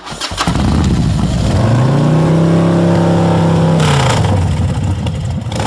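Motorcycle engine revving: the pitch rises, holds steady for a second or two, then drops back.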